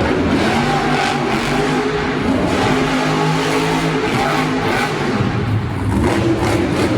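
Monster truck engine revving loudly, its pitch stepping up and down with the throttle.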